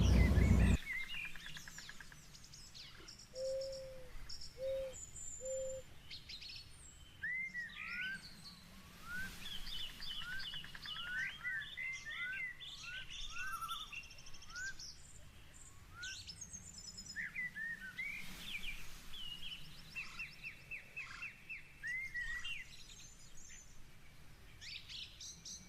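Several birds singing and chirping, with many quick upward-sweeping whistled notes and twittering. Three short, low, even notes come about four seconds in. A brief louder rush of noise opens the sound.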